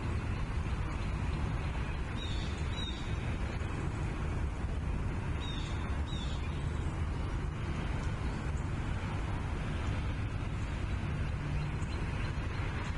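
Bald eagle calls at the nest: two short pairs of high, bending chirps, about two seconds in and again about five and a half seconds in. They sit over a steady rumble of wind on the nest-cam microphone.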